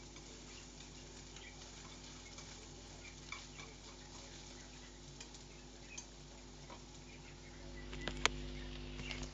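Faint scattered clicks and light taps over a steady low hum, with one sharper, louder click about eight seconds in.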